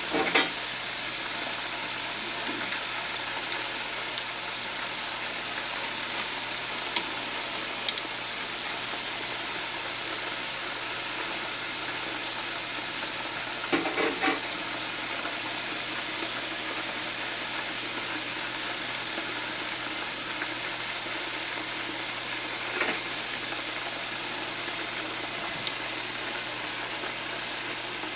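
Chicken pieces frying in hot oil in an open aluminium pot, a steady sizzle throughout. Short clacks of metal tongs come just after the start, twice about 14 seconds in, and once more about 23 seconds in.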